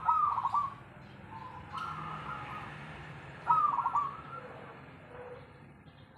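Zebra dove (perkutut) singing in full voice: three cooing phrases of quick stuttering notes, one at the start, one about a second and a half in and one about three and a half seconds in.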